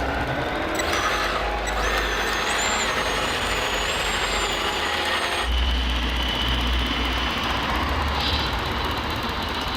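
Radio-controlled model construction machinery working, with electric motors and a hydraulic pump giving a high, wavering whine over steady mechanical noise. The sound changes abruptly about five and a half seconds in.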